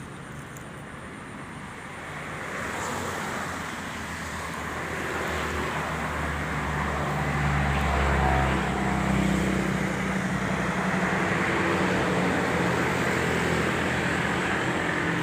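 A motor vehicle's engine running, growing louder over the first several seconds and then holding steady with a low hum.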